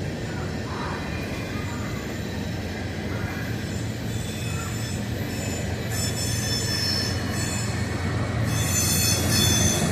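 Train wheels squealing against the rails over the low rumble of the rolling train. The high-pitched squeal comes in about six seconds in and grows stronger near the end.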